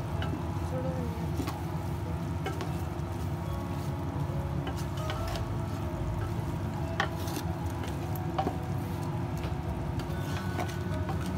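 Minced chicken frying in oil in a metal pot, sizzling steadily while a wooden spatula stirs and scrapes through it, with a few sharp knocks of the spatula against the pot.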